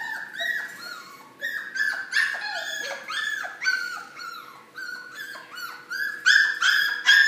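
Young puppies yipping and whining: a quick run of short, high-pitched yelps, a few each second, getting louder near the end.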